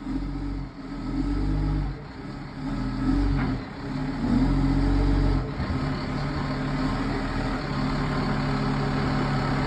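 Heavy truck's diesel engine revving in several surges, then settling to a steadier drone, as the truck is driven slowly up a trailer ramp.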